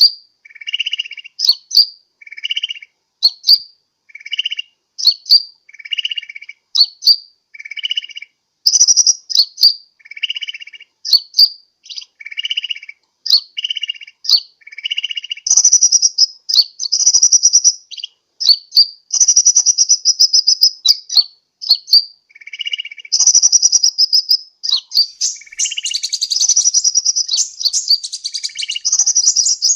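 Sunbird calls: sharp high chips alternating with lower buzzy notes about once a second, breaking into longer runs of rapid high twittering in the second half.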